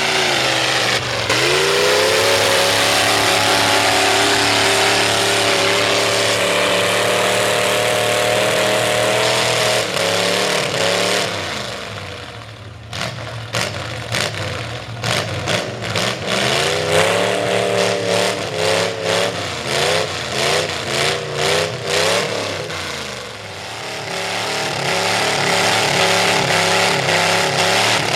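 V8 Ford mud truck's engine with open upright headers, revving hard: held at high revs for several seconds, dropping off, then blipped in quick throttle stabs about twice a second, before climbing to high revs again near the end.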